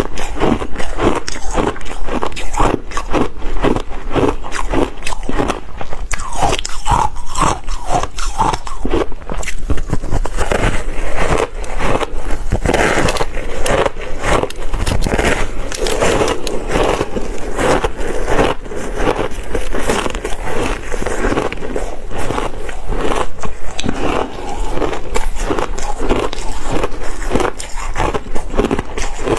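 Close-miked bites and chewing of hard ice with passion fruit: continuous crunching and cracking, several crisp crunches a second.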